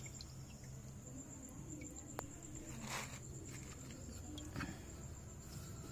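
Faint background: a steady high-pitched insect trill over a low hum, with a few light clicks and a brief rustle about three seconds in.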